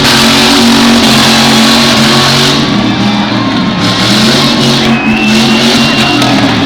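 Demolition derby car engines running and revving, loud and continuous, with music playing over them.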